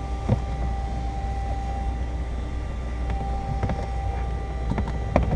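A steady low machine hum with a faint steady whine, broken by a few light clicks or taps, one about a third of a second in and a couple near the end.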